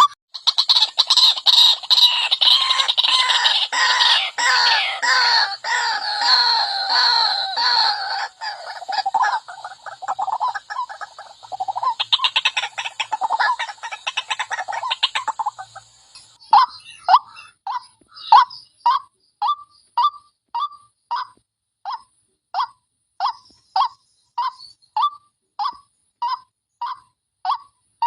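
White-breasted waterhen (wak-wak bird) calls played as a lure recording: a dense, overlapping chorus of calls for a little over half the time, then a steady series of single repeated notes, about one and a half a second.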